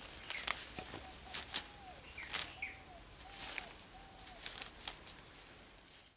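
Outdoor ambience: a bird repeating a short arched call roughly once a second, among sharp rustling clicks and a few high chirps. It cuts off suddenly at the end.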